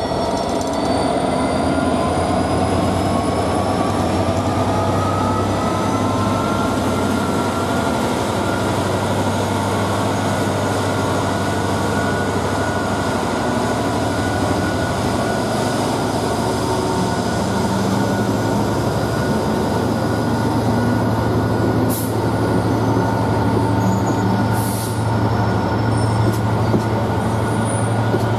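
GB Railfreight Class 66 diesel locomotive, with its two-stroke V12 engine running, passing slowly at the head of a loaded train of biomass hopper wagons, which then roll steadily past. A high whine rises in pitch over the first few seconds and then holds steady, and two sharp clanks come near the end.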